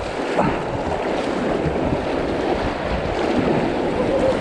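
Fast, high river water rushing and splashing around a kayak in rapids, with wind buffeting the microphone.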